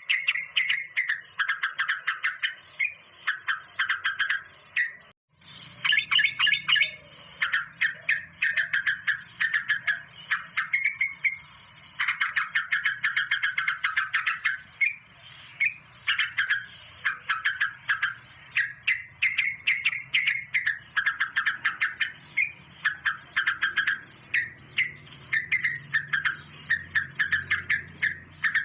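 Birds chirping in a continuous, rapid chatter of short repeated notes, with a brief break about five seconds in.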